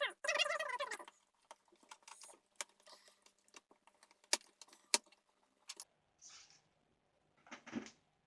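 Small sharp clicks and taps of a screwdriver working the screws out of a Toshiba Satellite laptop's plastic bottom case, followed by two short scraping sounds near the end.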